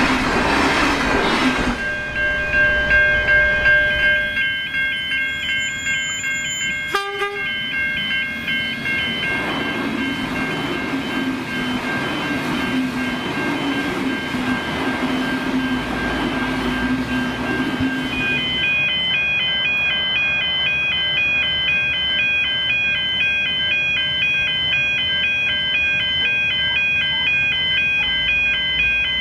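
V/Line VLocity diesel multiple units passing close over a level crossing: diesel engine and wheel-on-rail noise from a train running by, heaviest at the start and again in the middle. A steady high tone sounds throughout, and in the last ten seconds a repeating pattern of high tones comes in as the passing-train noise fades.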